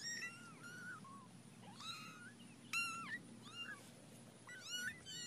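A litter of young kittens mewing: a string of short, high-pitched mews that rise and fall, several voices overlapping.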